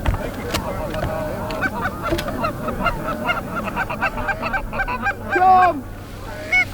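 Geese honking: many short, overlapping calls, with one louder, drawn-out falling call about five and a half seconds in.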